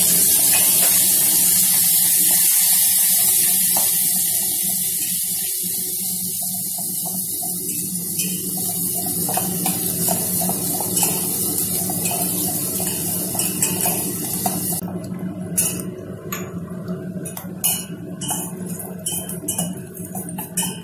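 Onion, green chilli, curry leaves and ginger sizzling in hot oil in a stainless steel pot, the sizzle loudest at first and slowly dying down. About three-quarters of the way through, a steel spoon starts clinking and scraping against the pot as the mix is stirred.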